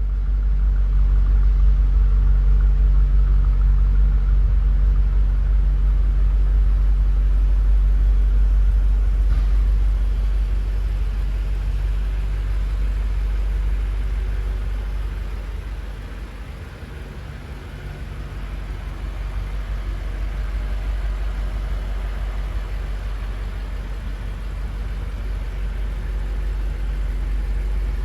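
A BMW M8's twin-turbo 4.4 L V8 idling with a steady low rumble. It grows softer for a few seconds about sixteen seconds in, then comes back up.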